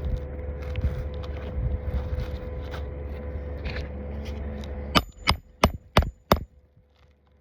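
Five quick hammer strikes, about three a second, nailing a replacement asphalt shingle into a roof. Before them, about five seconds of steady noise with small scrapes and clicks.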